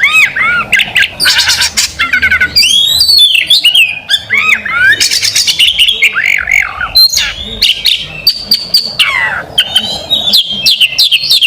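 Oriental magpie-robin (kacer) singing loudly. It runs a fast, varied stream of whistled sweeps, rapid trills and harsh chattering notes with only brief breaks.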